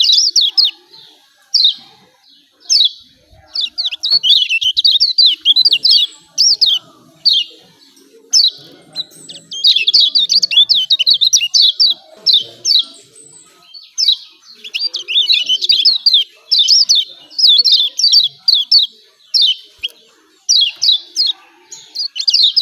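Kecial kuning (Lombok white-eye) giving excited 'ciak ciak' calls: loud bursts of quick, high, falling chirps, phrase after phrase with short pauses between.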